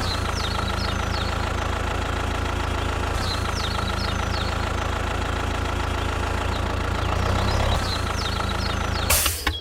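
Engine idling steadily with a fast, even pulse and a deep hum. Short high descending chirps come in three brief clusters, near the start, in the middle and near the end.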